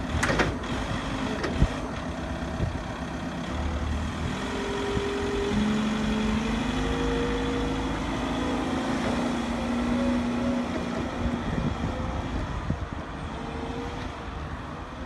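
Truck engine running, with a few sharp clicks in the first couple of seconds. Its pitch rises gradually through the middle, as the engine speeds up.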